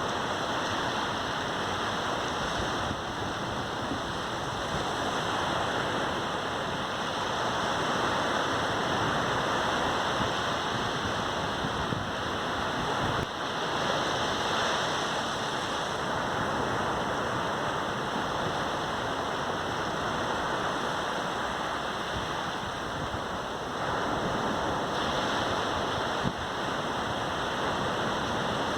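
Caribbean sea surf on a sandy beach: a steady rush of waves breaking and washing in, swelling and easing gently in loudness.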